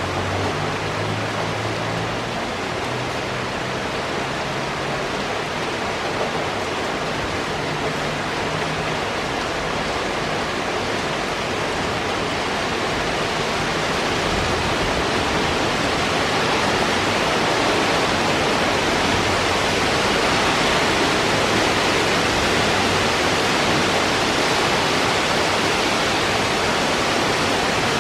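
Heavy rain from a rainstorm pouring down steadily as a dense, even hiss, growing a little louder about halfway through.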